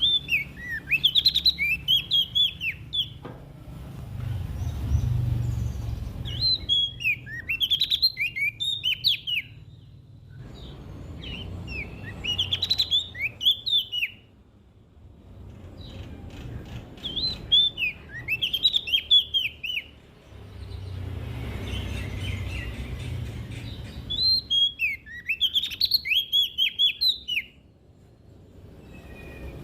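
Prenjak daun singing: five bursts of rapid, sweeping chirpy notes, each lasting two to three seconds, with pauses of a few seconds between them, over a low background rumble.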